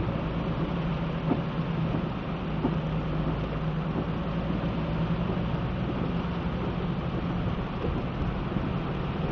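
Heavy rain falling, a steady hiss with a few faint ticks, over a low steady hum.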